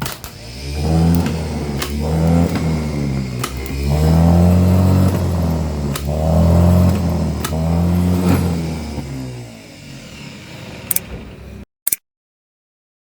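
Tata SE 1613 lorry's diesel engine running and being revved repeatedly in short swells, with a few sharp clicks. It settles down about ten seconds in, and the sound then cuts off abruptly.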